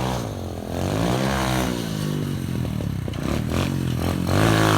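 SSR 125 pit bike's single-cylinder four-stroke engine revving up and falling back twice as it is ridden, with some short clattering clicks in the second half.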